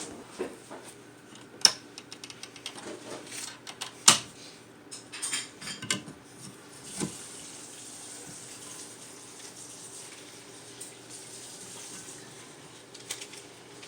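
A small dish knocking and clinking as it is handled at a sink, then a tap running steadily for several seconds.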